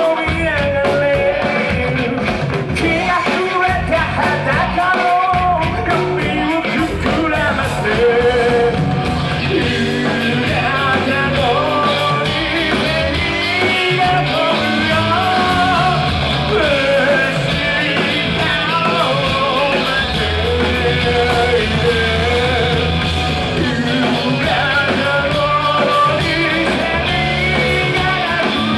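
Rock band playing live, with a singer's voice over electric guitars, bass and drums.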